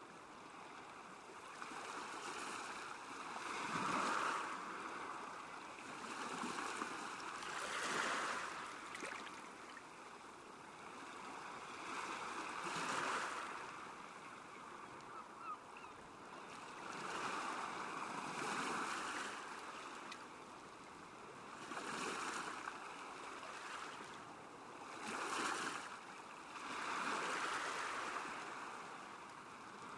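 Small waves lapping on a lakeshore, washing in and out in soft swells about every four to five seconds.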